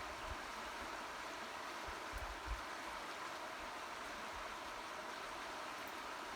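Steady rushing of a fast-flowing, swollen river, with a few soft low bumps of wind on the microphone.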